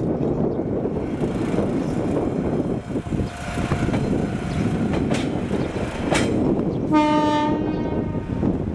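A Kishu Railway diesel railcar running past with a steady rumble and a couple of sharp clicks, then one horn blast about a second long near the end.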